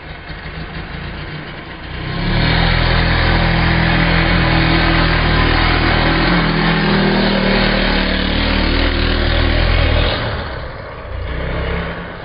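Motocross dirt bike engine running under throttle. It gets much louder about two seconds in, holds for some eight seconds, then drops away with a brief swell near the end.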